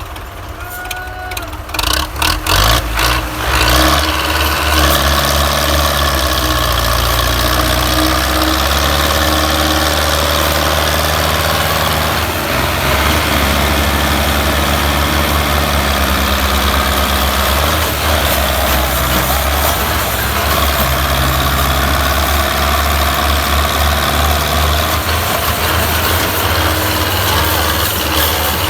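Tractor diesel engine picking up with a rough run of knocks about two to four seconds in, then running loud and steady, its pitch shifting a little now and then.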